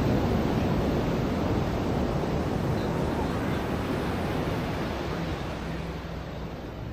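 Ocean surf washing onto the beach: a broad rush of water that slowly dies away. Faint voices of people can be heard behind it.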